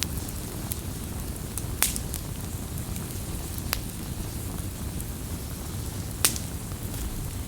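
Wood campfire burning with a steady low rumble and hiss, broken by sharp crackles and pops. The loudest pops come just before two seconds in and a little after six seconds in.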